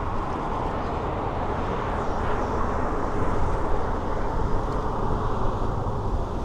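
Steady rush of wind and road noise on a bike-mounted action-camera microphone while cycling, with city traffic mixed in.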